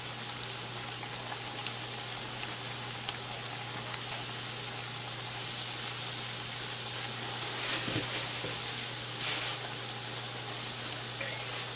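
Breaded potato-and-tuna croquettes deep-frying in hot oil in a skillet: a steady sizzle, with a few faint clicks and two brief louder bursts of crackle about eight and nine seconds in.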